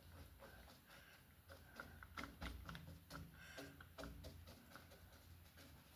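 Near silence with faint, irregular dabs and scrapes of a paintbrush working acrylic paint on canvas, over a low steady hum.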